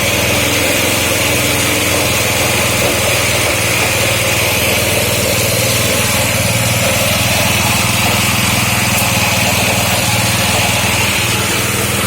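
A small motor running steadily at an even speed, with a constant low hum and a hissing whine above it.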